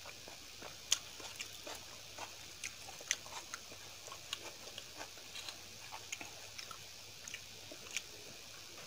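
Close-up eating sounds: a person chewing soft food, with many small, irregular wet clicks and mouth smacks and a few louder ones about a second in, around three seconds in and near the end.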